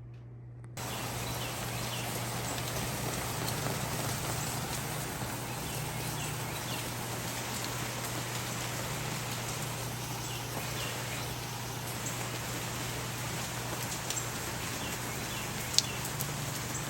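Steady rain falling, an even hiss with scattered small drip taps and one sharper tap near the end. It starts abruptly just under a second in.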